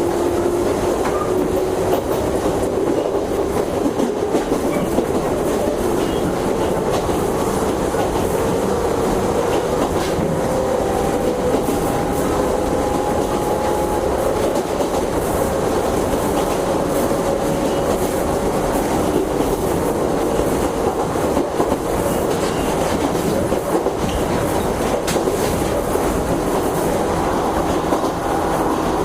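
JNR 101 series electric train running, its motor and gear whine rising slowly in pitch as it gains speed, over steady wheel and track noise with the clickety-clack of rail joints.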